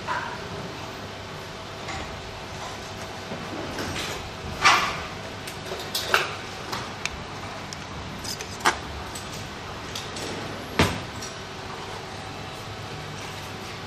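Scattered clicks and knocks of parts and tools being handled during work on the machine, four of them sharp and loud, between a low steady background.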